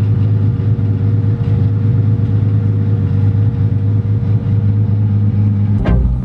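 1JZ straight-six engine of a Nissan S13 240SX running steadily at low revs while the car rolls slowly, a continuous low drone. The sound changes abruptly with a few sharp clicks near the end.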